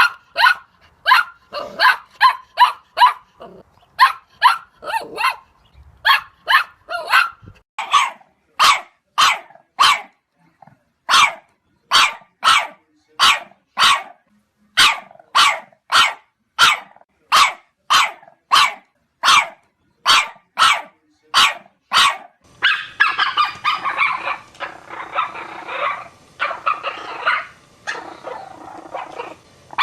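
Dog barking repeatedly in short, sharp barks, about two a second. About 22 seconds in, it gives way to a denser run of rapid, overlapping barking.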